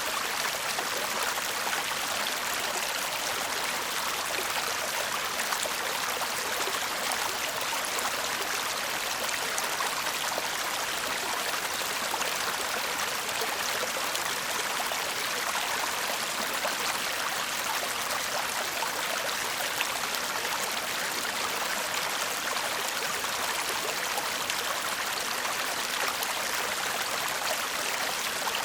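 Shallow stream babbling and murmuring steadily over stones, an even rush of water with no pauses.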